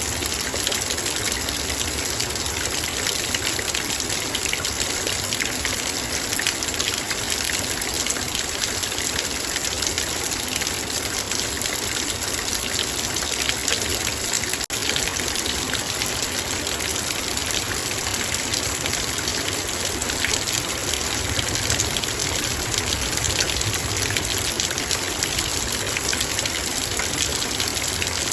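Heavy rain falling on a metal bowl: a dense, steady patter of many raindrops striking the metal over a constant hiss of rain.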